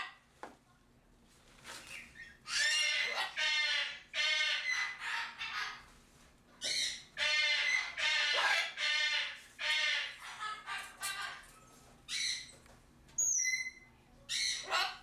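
Greater sulphur-crested cockatoo squawking, a series of about eight loud, pitched calls, each under a second long, with a few short high whistles near the end.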